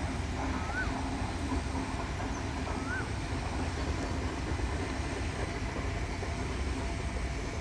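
Passenger train hauled by Lok2000 electric locomotives going by, a steady low rumble with a faint hum. A bird chirps twice in the first three seconds.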